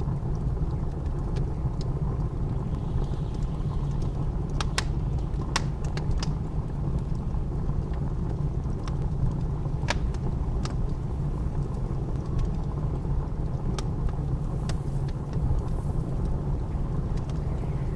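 Wood fire crackling, with sharp irregular pops every second or so, over the steady low rumble of blizzard wind.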